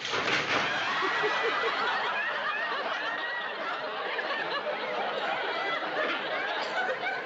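Studio audience laughing: a long wave of laughter from many people that breaks out suddenly and carries on for several seconds.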